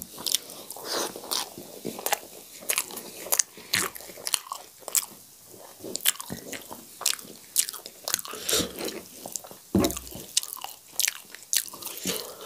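Close-miked eating of sag bhat (rice and cooked leafy greens): wet chewing with many irregular mouth smacks and clicks. Fingers squish as they mix rice and greens on the tray.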